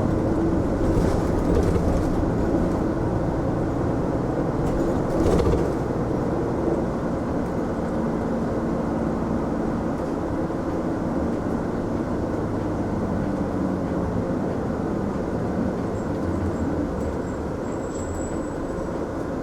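Mitsubishi Fuso Aerostar city bus running, heard from inside the passenger cabin: steady engine and road noise, the engine's pitch shifting slowly as it drives. A few brief clicks or rattles sound about one and five seconds in.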